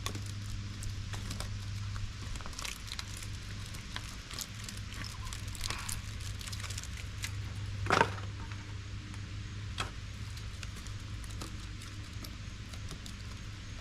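Small metal clicks and scrapes of a flathead screwdriver prying copper pieces out of scrapped appliance parts, with one sharper knock about eight seconds in, over a steady low hum.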